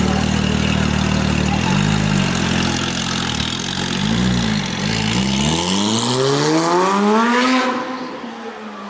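Performance car engine idling, blipped a few times, then revved hard as the car accelerates away, its pitch climbing steadily before the sound falls off near the end.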